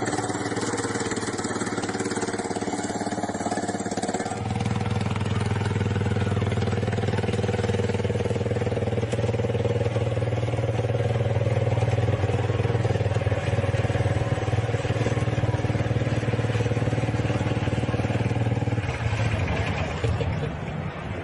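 An engine running steadily. About four seconds in it becomes a louder, lower steady drone, which fades away near the end.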